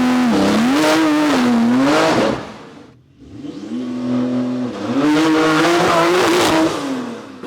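Tuned Porsche 992 Turbo's twin-turbo flat-six with aftermarket exhaust pulling hard, twice. Each time the engine note climbs, holds high while wavering up and down, then falls away. The first pull dies out about three seconds in before the second begins.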